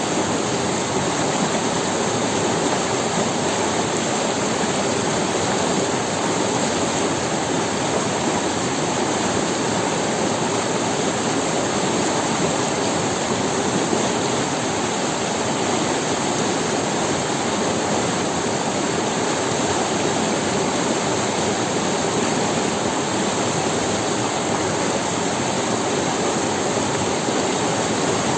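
Forest river running over stones: a steady, unbroken rush of flowing water.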